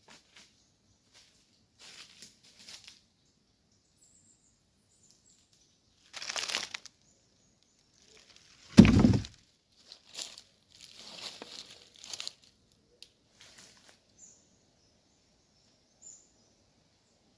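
Brush and dry leaves rustling and crackling in short, scattered bursts, with one heavy thud about nine seconds in.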